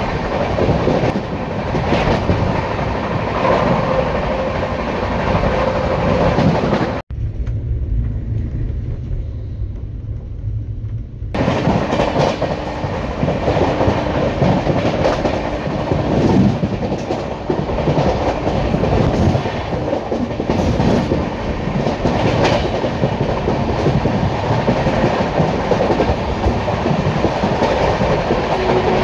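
Rajdhani Express passenger train running at speed: a steady loud rumble and rush of wheels on rail, with scattered clicks over rail joints. About seven seconds in the sound breaks off sharply and is dull and muffled for about four seconds, then comes back full.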